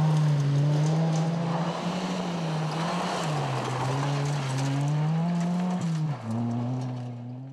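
Ford Fiesta ST rally car's four-cylinder engine, its revs rising and falling as it drives a stage. The pitch drops sharply about six seconds in, and the sound then fades away.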